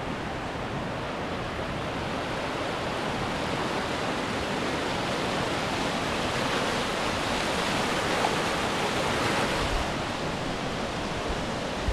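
Whitewater rapids rushing steadily, a continuous roar of fast water over rocks and ledges that swells slightly in the middle.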